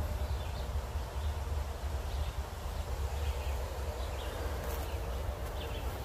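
Woodland ambience: small birds giving short, repeated chirps over a steady low rumble.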